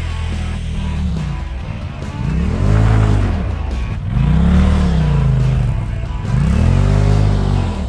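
Polaris RZR side-by-side's engine revving up and dropping back three times in a row, each rise and fall lasting about two seconds.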